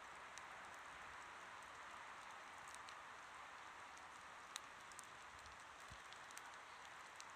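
Faint wood campfire burning: a steady hiss with small crackles and pops scattered irregularly, one slightly sharper pop about four and a half seconds in.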